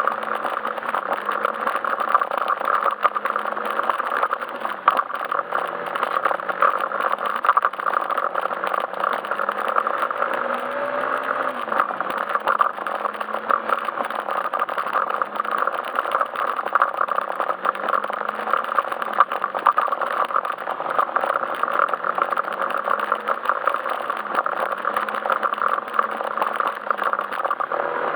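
Yamaha Majesty S scooter's engine running while riding, its pitch rising and falling gently with the throttle, under a steady band of road and wind noise.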